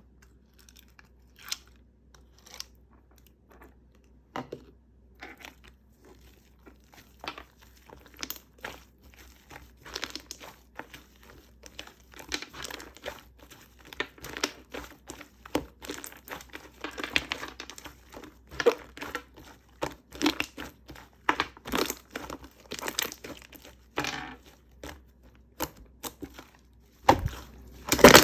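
Close-up crinkling and rustling of paper or plastic being handled, a run of short crackles that gets busier and louder, loudest near the end.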